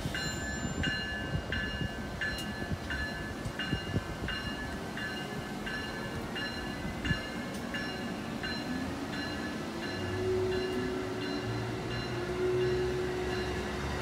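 Amtrak Northeast Regional passenger train passing the platform: steady rail rumble with a bright ringing click repeating about twice a second that fades as the train goes by. A low hum comes in about ten seconds in.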